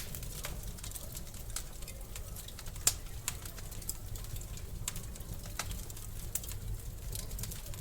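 Wood fire crackling in a fireplace: irregular sharp pops and snaps over a low, steady rumble, with one louder pop about three seconds in.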